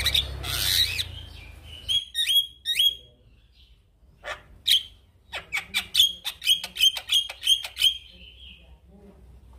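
Male Javan myna singing: a harsh noisy call at the start, then three sharp whistled notes, a short pause, and a fast run of a dozen or so chirping notes, about four a second, that stops about eight seconds in.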